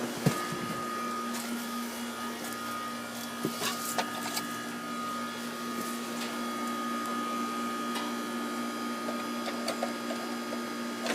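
Newly installed York air conditioning system running with a steady mechanical hum, with a few light clicks in the first few seconds.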